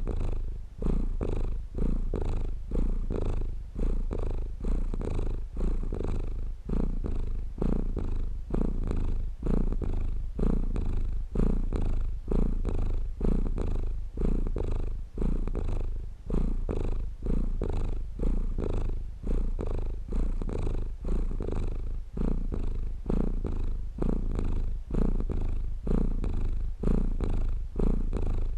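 Domestic cat purring close up, the purr swelling and dipping with each breath in and out, a little more than once a second.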